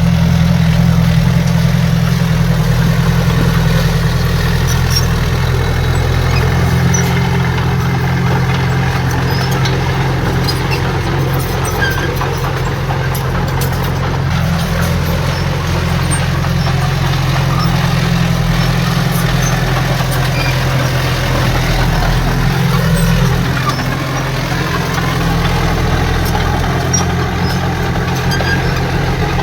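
Heavy diesel engine of earth-moving machinery running steadily, a loud, even low drone that holds throughout.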